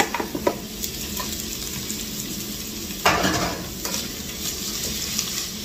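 Ground beef going into a pot of onions frying in hot olive oil, sizzling steadily, with sharp clicks of a spatula scraping the plastic container and the pot. About three seconds in there is a louder rush of sizzling and scraping as the meat is stirred.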